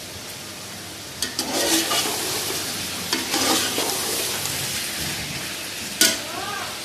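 Chicken pieces sizzling in an aluminium pot as they are stirred and turned with a metal slotted spoon. The stirring begins about a second in, and near the end the spoon gives one sharp clank against the pot.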